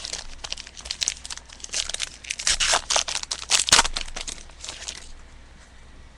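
A sealed trading-card box and pack wrapper being torn open by hand: a run of crinkling and tearing, loudest in the middle, dying away about five seconds in.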